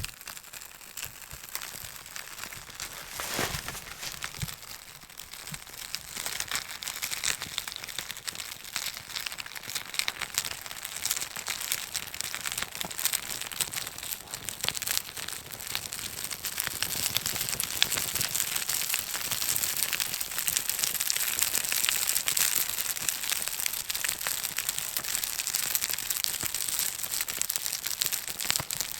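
Birch bark burning, with a dense, continuous crackling that grows busier and louder about halfway through.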